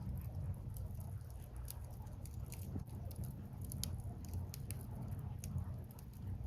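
Wood fire burning, firewood crackling with many small irregular pops over a steady low rumble.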